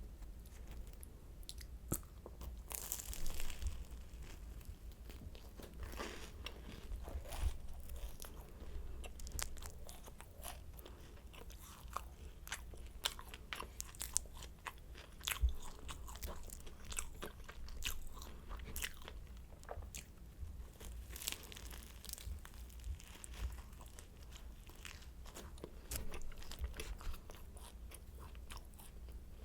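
Biting into and chewing flaky croissant: crisp, crackling crunches of the pastry, coming in denser clusters about three seconds in and again around twenty-one seconds in.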